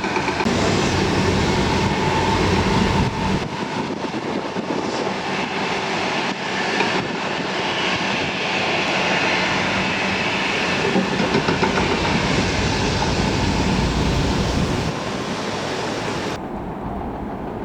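Train running on rails, a steady rumble with wheel clatter.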